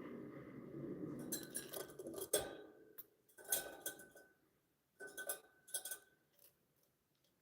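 A soft rustling for the first two seconds or so, then a series of light clinks and rattles, like small hard objects knocking together, twice followed by a short ringing tone.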